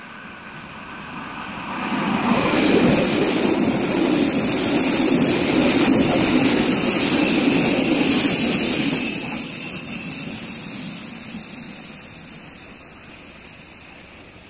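Electric express train running past close by a station platform at speed: a rushing noise of wheels and air that swells over a couple of seconds, holds for several seconds, then fades away.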